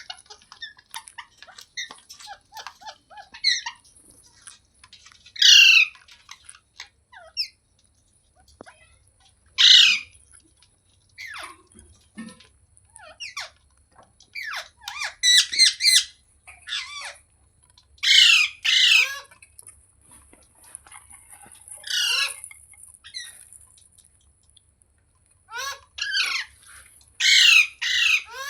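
Pet rose-ringed parakeet (Indian ringneck) squawking: loud, harsh calls that fall in pitch, singly and in quick pairs every few seconds, with softer chattering between them in the first few seconds.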